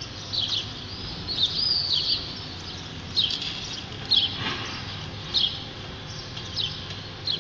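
Small bird chirping in short, repeated calls about once a second over a steady low street background hum.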